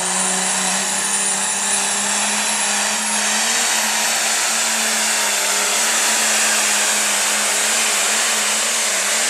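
Turbocharged diesel pulling tractor running hard at high revs, its engine note rising slightly, with a high whistle over it that climbs in the first few seconds.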